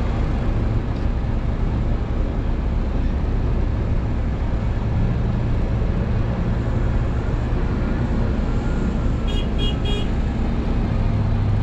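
Crane's diesel engine running steadily while hoisting, with a low hum. Three short high beeps come about nine and a half seconds in.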